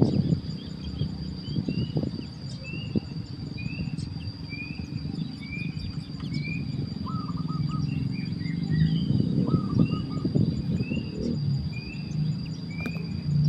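Small birds giving short, repeated chirps, about one every second, with a few lower call notes in the middle. Under them runs a steady high insect drone and a loud low rumble.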